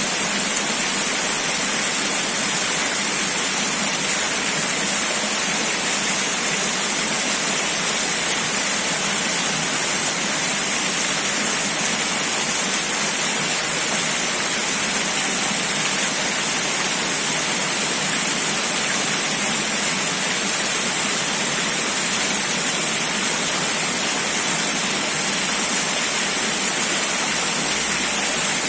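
Steady rushing noise of wind and water, an even, unbroken hiss with no separate events.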